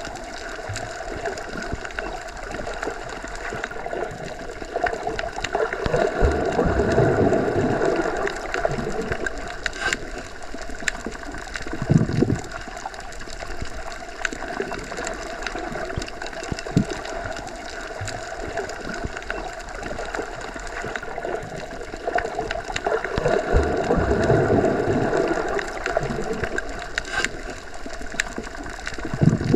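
Underwater ambience: a steady muffled wash and gurgle of moving water, dotted with small clicks, that swells louder twice, about six seconds in and again past twenty seconds, with a couple of short low thumps.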